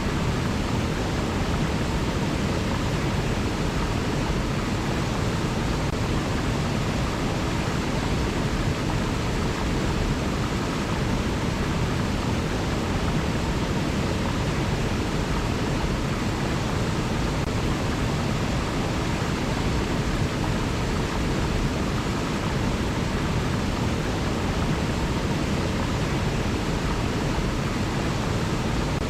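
River water flowing, a steady, unchanging rush of noise with most of its weight low down.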